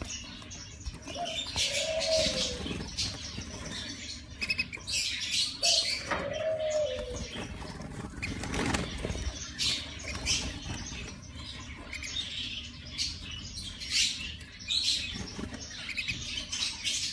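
Caged mosaic canaries fluttering their wings and hopping about, with short scattered chirps. A lower call near 600 Hz, which rises and then falls, comes twice.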